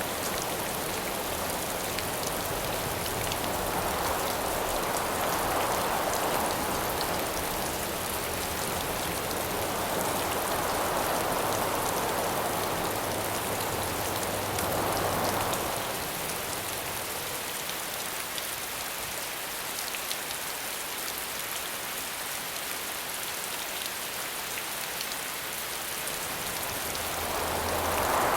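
Steady rain pattering, with gusts of wind swelling and fading several times over it, the last gust building near the end.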